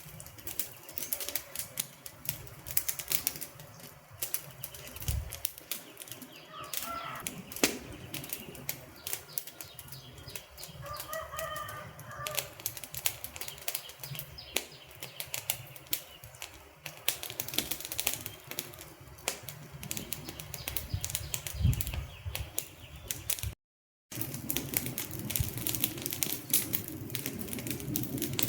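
Wood fire crackling: a dense, irregular run of sharp pops and snaps over a low rumble of burning. A couple of short chirps come through around seven and eleven seconds, and the sound cuts out for a split second near the end.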